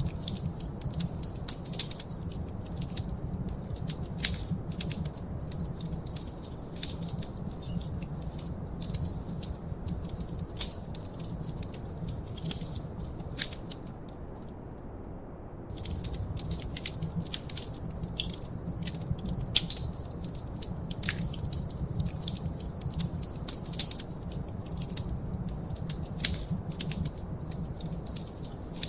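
Wood fire crackling: a dense, irregular run of sharp pops and snaps over a steady low rumble. The crackling stops for about a second and a half midway, then resumes.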